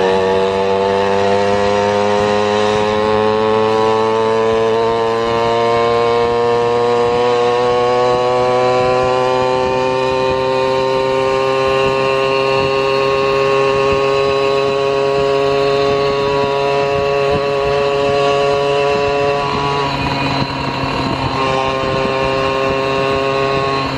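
Motor of a small two-wheeled vehicle running under way, its pitch rising slowly and steadily as speed builds. The pitch breaks and dips briefly about 20 seconds in, then carries on.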